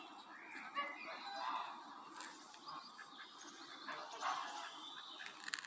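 Birds calling: short, irregular calls come one after another throughout, with a few sharp clicks near the end.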